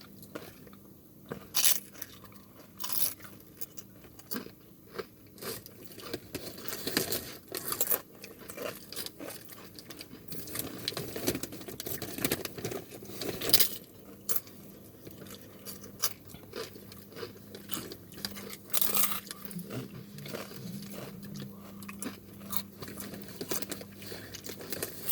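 Close-miked crunching and chewing of chips: irregular sharp crunches with bites, the loudest about a second and a half in and near the middle.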